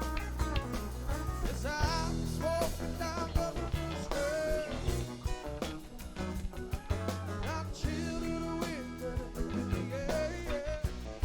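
Rock band playing, with guitar, bass and drums keeping a steady beat.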